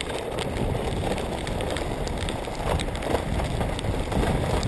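Mountain bike descending a rough trail at speed: a steady rush of wind and tyre noise with the frame and parts rattling in short clicks.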